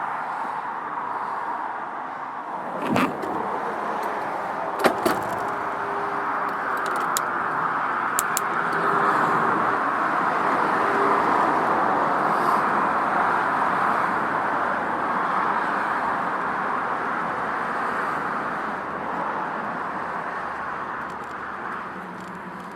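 Steady road traffic noise from a busy main road, swelling in the middle as vehicles pass, with a few sharp clicks in the first several seconds.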